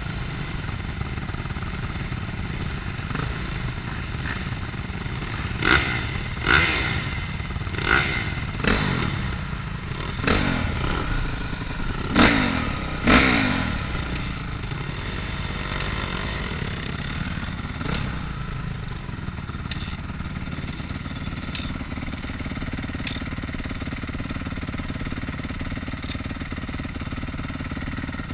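Motocross bike engines revving hard in a run of about seven short, loud surges in the middle, rising and falling in pitch, over a steady low rumble.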